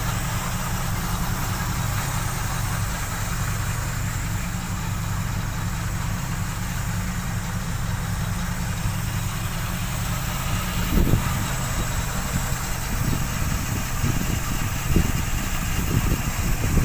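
Ford 351 Windsor V8 idling steadily in an F100 panel van. From about eleven seconds in, irregular low thumps sound over the idle.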